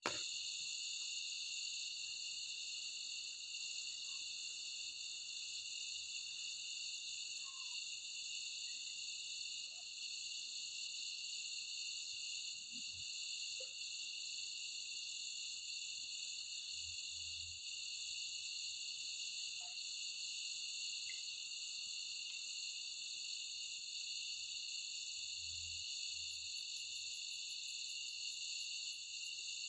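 Steady insect chorus, a constant high-pitched trill that never lets up.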